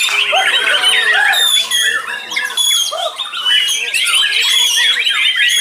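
Several white-rumped shamas (murai batu) singing at once in loud, dense song. Rapid whistles, trills and harsh notes overlap without a pause.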